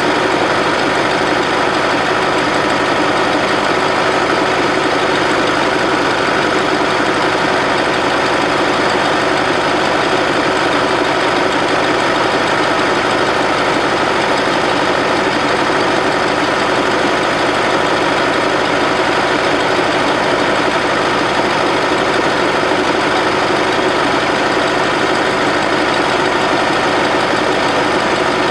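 Bobcat 610 loader's air-cooled Wisconsin gasoline engine running steadily at a constant speed.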